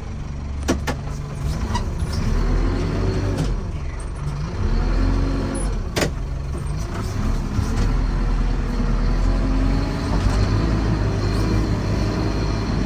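Fermec backhoe loader's diesel engine running, its pitch dipping and rising as throttle and load change, with a few sharp knocks, the loudest about six seconds in.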